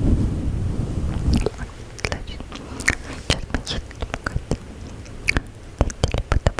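A fluffy microphone windscreen rubbed close to the microphone gives a low rumbling rustle for about the first second and a half. It then gives way to a run of close-up ASMR mouth sounds: many separate wet clicks and smacks.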